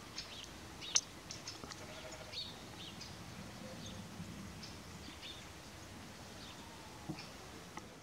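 Small birds chirping faintly, short high calls coming thick in the first few seconds and thinning out later, with a single sharp click about a second in.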